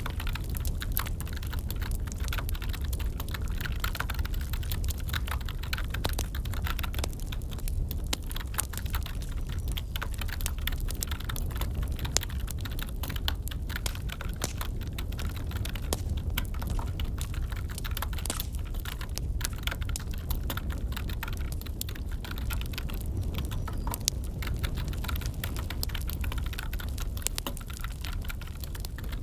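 Computer keyboard typing, a continuous irregular patter of key clicks, over the crackle and low rumble of a burning wood fire.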